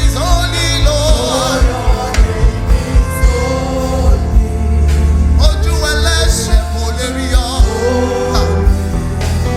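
Live gospel worship music: singing over a band with a steady bass and drum beat.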